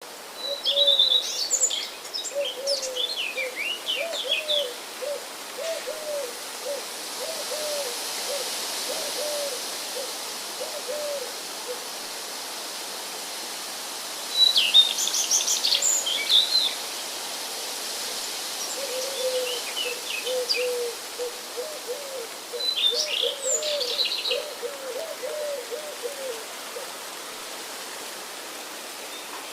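Birds calling: one gives a long run of low notes, about two a second, which stops and then starts again near the middle. Short bursts of higher chirps and trills come from other birds three times, over a faint steady hiss.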